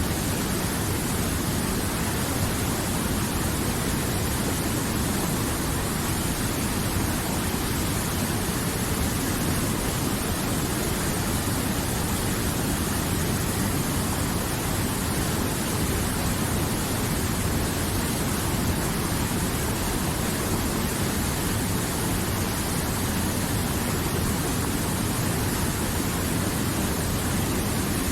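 River water flowing, a steady, unbroken wash of noise with no single splashes or other sounds standing out.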